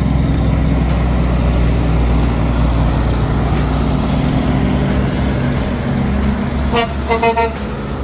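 Heavy truck's diesel engine running with a steady low rumble, then its horn sounding in a few quick toots about seven seconds in.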